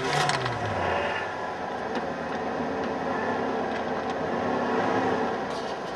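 1991 Ford F150's 4.9-litre inline-six just after a cold start: it flares up in revs in the first second, then settles to a steady idle.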